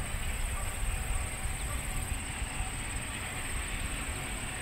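Prairie Dog Central heritage train running out of sight, heard as a steady low rumble.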